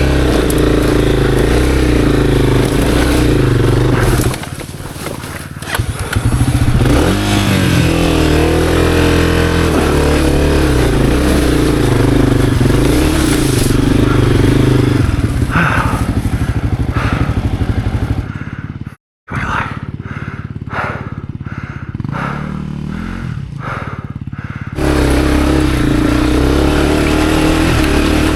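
Honda CRF250F single-cylinder four-stroke dirt bike engine working under load up a rocky hill climb, its revs rising and falling. The engine sound drops away briefly a few seconds in, and later goes quieter for several seconds with a run of knocks and clatter before it comes back loud near the end.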